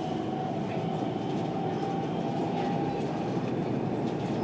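Dubai Metro train running between stations, heard from inside the carriage: a steady rumble of wheels on rail with a faint steady whine above it.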